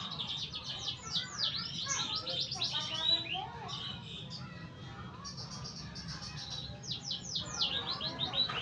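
Domestic canary singing: a long song of rapid rolling trills and quick sweeping whistled notes, thinning out briefly about halfway through.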